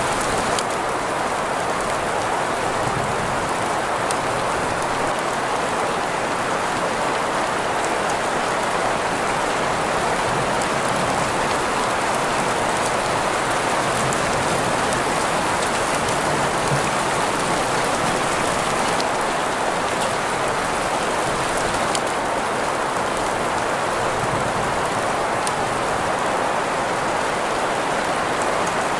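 Steady rain mixed with green noise: an even, unchanging hiss centred in the middle of the range, with faint drop ticks scattered over the top.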